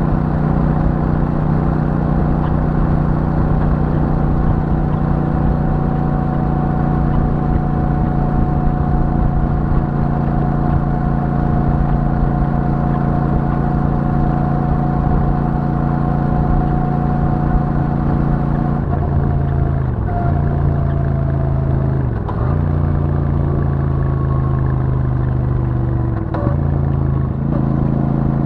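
Royal Enfield Super Meteor 650's 648 cc parallel-twin engine through its stock exhaust, running at steady revs while under way. Its note dips briefly three times in the last third.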